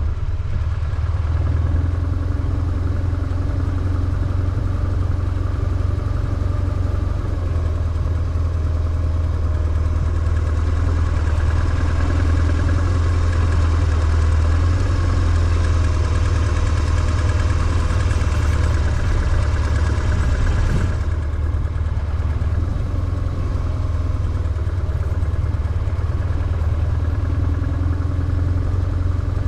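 BMW R1150GS's air-cooled boxer twin engine running steadily at low revs with a deep, even hum. A hiss rises alongside it in the middle and cuts off abruptly about two-thirds of the way through.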